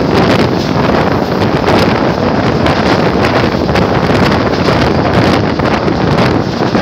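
Heavy wind buffeting the microphone over the steady rumble of a passenger train's wheels on the rails, heard from a coach window with the train at speed.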